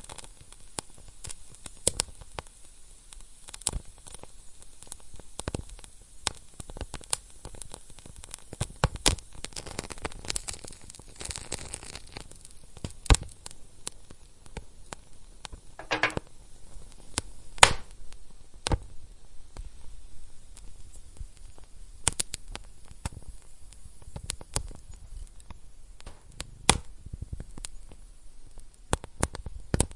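Wood fire in a fireplace crackling, with irregular sharp pops of varying loudness over a low hiss. The hiss swells for a few seconds about a third of the way in.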